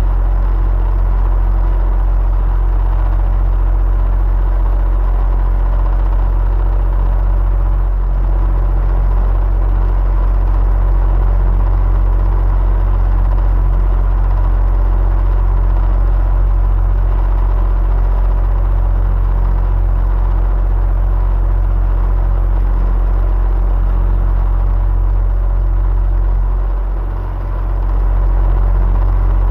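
Electric fan running steadily: a low, constant hum and whir with a few faint steady tones over it. The level dips briefly near the end.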